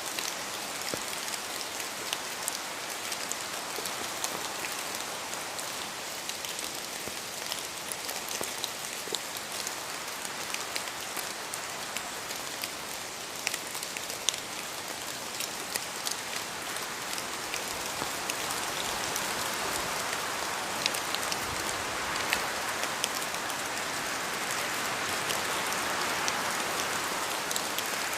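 Steady rain, with many individual drops ticking through an even hiss. It grows slightly louder over the second half.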